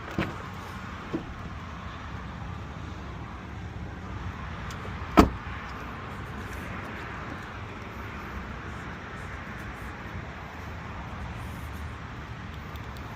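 A steady low rumble with one sharp, loud knock about five seconds in, and a couple of faint clicks near the start.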